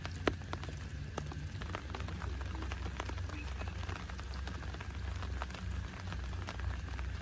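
Rain falling, with many separate drops ticking sharply and irregularly over a steady low hum.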